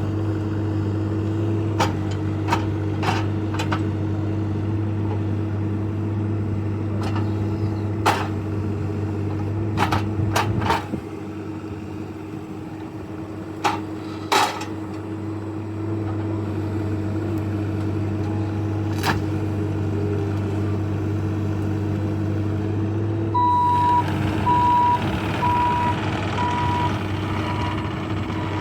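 Compact diesel machinery running steadily, with scattered clanks and knocks of debris being moved. About 23 seconds in, a backup alarm starts beeping at a steady pace, roughly twice a second.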